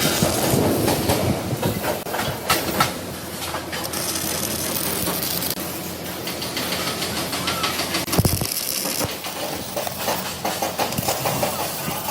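Continuous factory machinery noise with frequent clicks and knocks.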